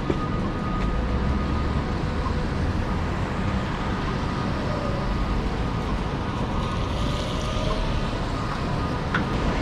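Steady wash of heavy rain mixed with the low rumble of city traffic, with no single event standing out.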